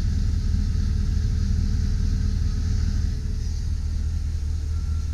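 2005 Chevy Silverado 2500 HD's engine idling steadily with a low hum, easing slightly about three seconds in.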